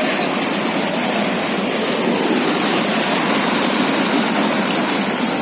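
Steady rushing, washing noise of floodwater.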